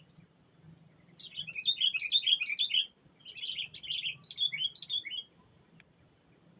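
Sooty-headed bulbul singing: two bursts of quick, bubbling chirped notes, the second ending about five seconds in.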